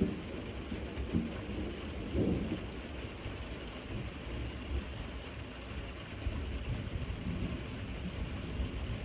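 Steady rain hiss over a low rumble of thunder, with a few louder swells about one and two seconds in.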